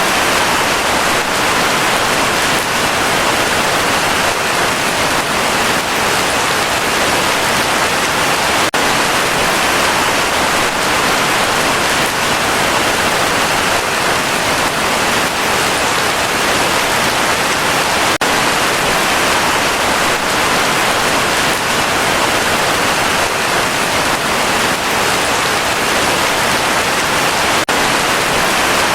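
Heavy rain falling steadily: a dense, even hiss of drops without let-up.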